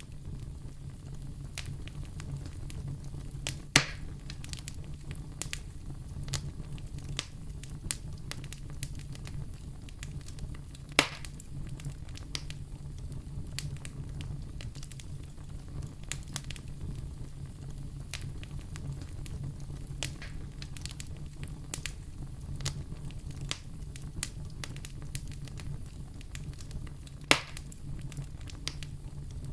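Fire crackling in a fireplace: a steady low rumble of flame under constant small snaps, with three louder sharp pops.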